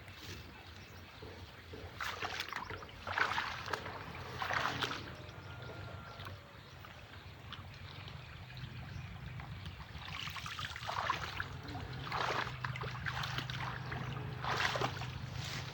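Water splashing in several irregular bursts, over a steady low hum.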